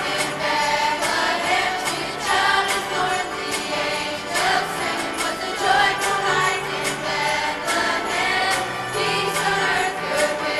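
A school choir singing a holiday song, accompanied by jingle bells shaken on a steady beat.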